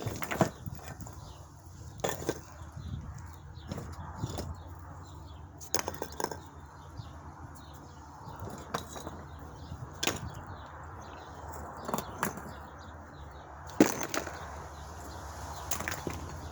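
Rocks knocking against each other as they are moved and set in place: about a dozen sharp clacks a second or two apart, the loudest near the end, over a steady low background.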